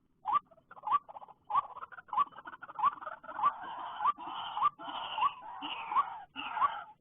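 White-breasted waterhen calling: a short rising note repeated steadily about every 0.6 s, joined about a second in by a harsher croaking chatter that builds and thickens.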